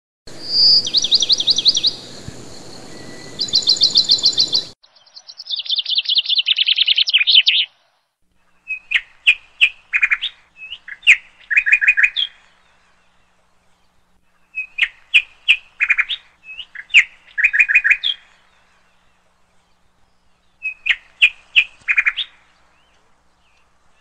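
Birdsong: high chirps and fast trills, then a falling trill, then several short phrases of sharp chirps and trills separated by brief pauses.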